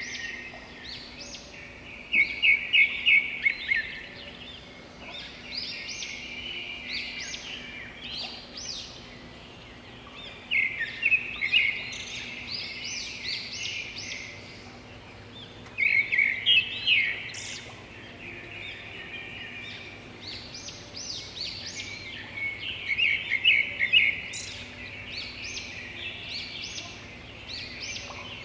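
Songbirds singing and calling in a steady chorus of chirps and trills, with several louder bursts of song standing out above the rest.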